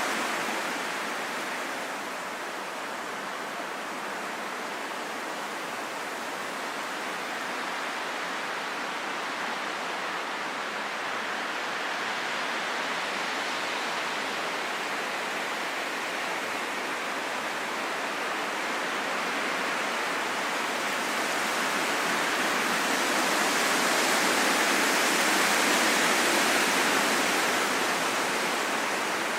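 Wind blowing as a steady rushing hiss that slowly rises and falls, swelling to its loudest in a gust near the end.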